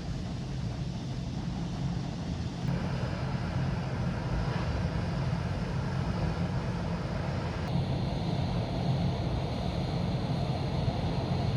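Steady low vehicle rumble. Its higher-pitched part changes abruptly twice, about a third of the way in and again about two-thirds in.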